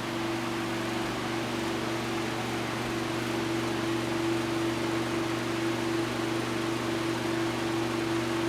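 Lakewood 1500A 15-inch table fan running on high speed: a steady rush of air from the blades over a steady electric motor hum.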